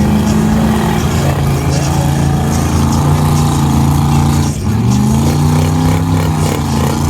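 Off-road truck engine held at high revs. The pitch climbs at the start and holds steady, drops briefly about four and a half seconds in, then climbs back and holds again.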